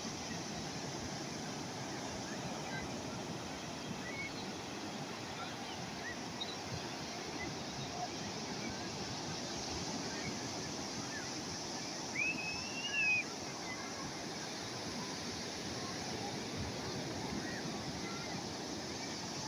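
Calm sea waves washing steadily on the shore, with a few faint high calls and one louder, arching call about twelve seconds in.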